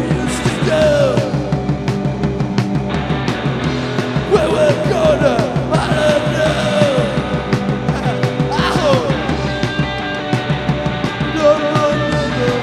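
Live rock band playing a song at full volume, with a steady drum beat under sliding melodic lines.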